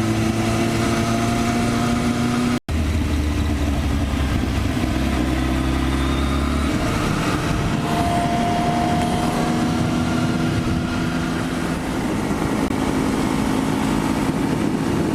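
Motorcycle engine running at steady road speed under wind noise, its pitch shifting a little a few times. The sound cuts out completely for an instant about three seconds in.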